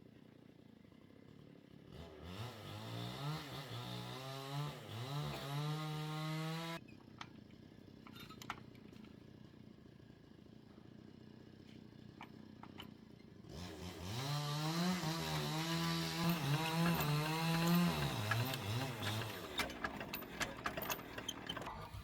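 A small motor or engine spins up quickly, runs at a high, slightly wavering speed for about five seconds and stops abruptly. It then does the same again, this time winding down. Light clicks follow near the end.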